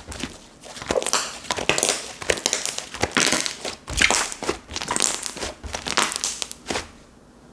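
Hands squishing and working a slime, giving an irregular run of crinkly, crackling squelches that stops about seven seconds in.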